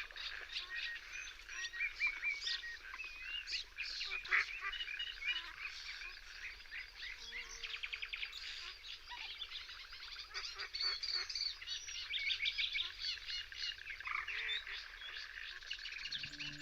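Many birds calling and singing at once: a dense chorus of short chirps and trills. Steady music notes come in right at the end.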